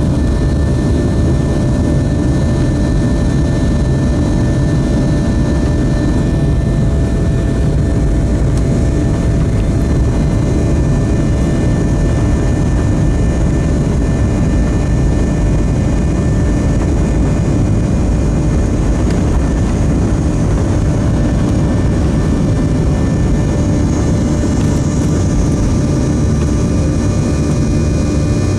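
Boeing 737-700's CFM56-7B turbofan engines heard from inside the cabin at high thrust during the climb after takeoff: a steady, loud, deep roar with several steady whining fan tones above it.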